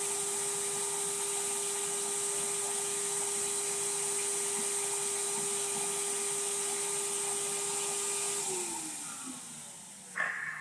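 Record Doctor X record-cleaning vacuum motor running with a steady whine and hiss, sucking the cleaning fluid off the record. About eight seconds in it is switched off and its pitch falls as it winds down, followed by one sharp click near the end.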